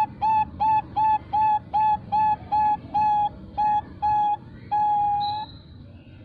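Female Bangkok-type zebra dove (perkutut) cooing: a fast run of short, clear, flute-like notes, about three a second, ending about five seconds in with one longer drawn-out note, the long ending prized in this line of birds.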